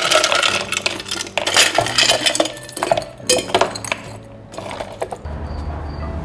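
Kitchen utensils and dishes clattering: a quick run of clinks, knocks and scrapes for about four seconds. A steady low hum comes in near the end.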